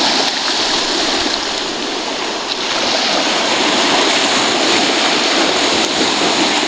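Ocean surf washing up the beach and rushing back out, a steady loud rushing noise.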